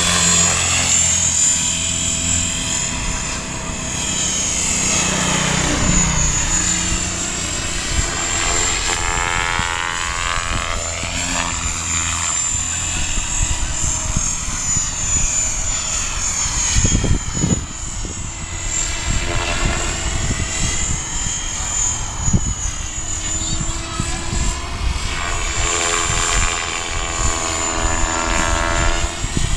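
Align T-Rex 550E electric RC helicopter in flight: its 520 mm main rotor blades and electric motor whine, rising and falling in pitch again and again as it manoeuvres. Strong wind rumbles on the microphone underneath.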